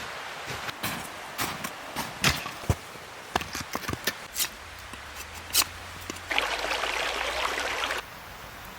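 Crackling of a wood fire: irregular sharp pops and snaps over a low hiss. About six seconds in comes a denser hiss of nearly two seconds that cuts off suddenly.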